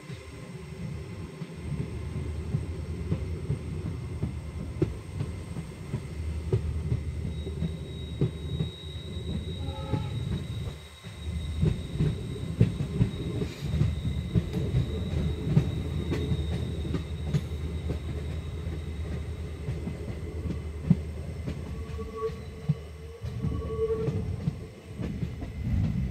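Passenger train coach running at speed, heard at the open door: a steady heavy rumble of steel wheels on the rails with irregular clatter and knocks. Through the middle stretch a thin high-pitched wheel squeal rides over the rumble.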